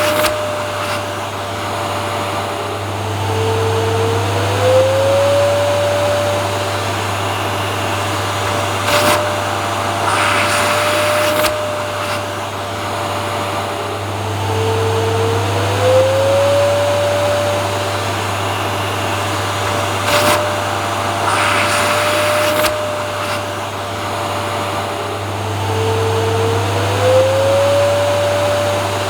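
Vacuum cleaner motor running continuously with a steady hum and whoosh of air. Its whine drops lower and then slides back up to pitch about every eleven seconds.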